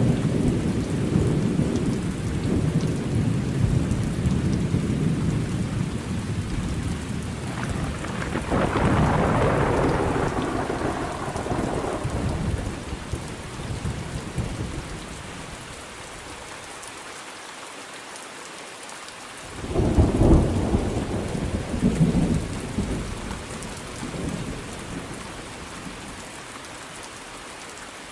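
Thunderstorm: steady rain with thunder. A long low rumble of thunder fades out by about halfway, then a sudden sharp thunderclap about two-thirds of the way in rumbles away over a few seconds.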